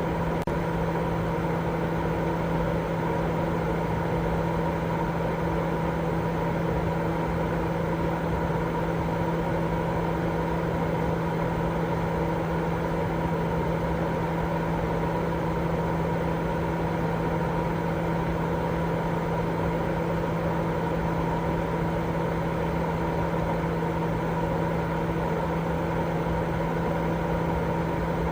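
Continuous baby sleep-aid white noise: a steady, unchanging low rushing sound with a constant hum running through it.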